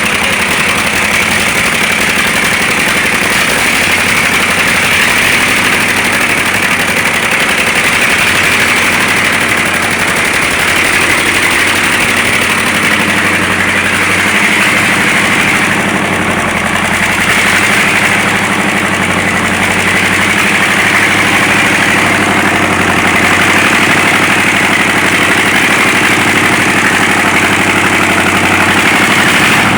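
DT-75 crawler tractor's diesel engine running steadily at idle, freshly rebuilt after a major overhaul.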